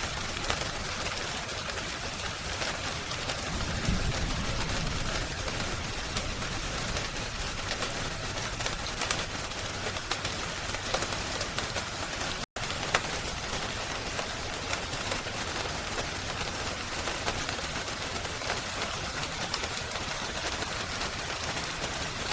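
Steady rain hiss with occasional sharp crackling pops from a wood fire. The sound cuts out for an instant about twelve seconds in.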